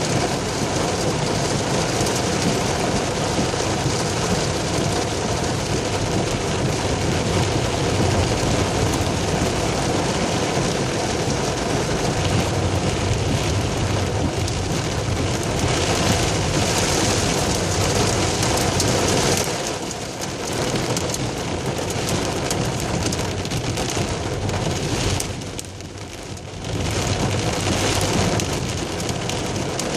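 Heavy rain pouring down in a steady downpour, the rush dipping briefly twice about two-thirds of the way through before coming back just as hard.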